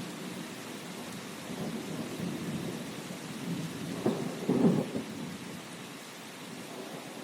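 Steady rain hissing, with low rolls of thunder rumbling through it; the strongest roll comes about four to five seconds in, and the rumble fades away near the end.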